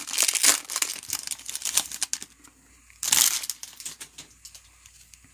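Trading-card pack wrapper crinkling as it is handled and torn open: dense crackling for about two seconds, then a shorter crinkle about three seconds in.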